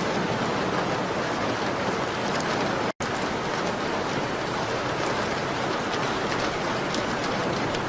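Steady rain on a window: an even hiss with faint scattered ticks of drops. It drops out for a split second about three seconds in.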